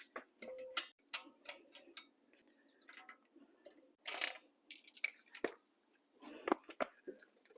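Irregular light clicks, taps and brief clatter of hand tools being handled during the wheel-removal and puncture-repair work.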